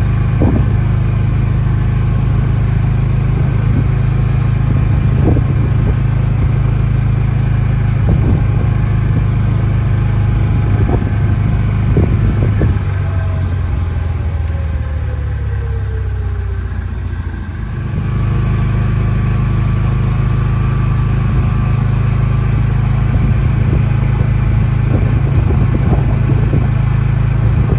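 Steady low drone of a car driving, heard from inside the cabin. It eases off briefly about two-thirds of the way through, then picks up again.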